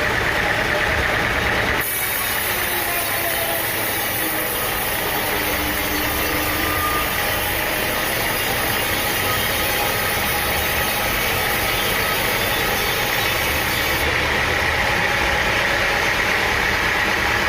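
Engine-driven machinery running steadily, with faint wavering tones in its noise. A bright high hiss cuts in suddenly about two seconds in and drops out a few seconds before the end.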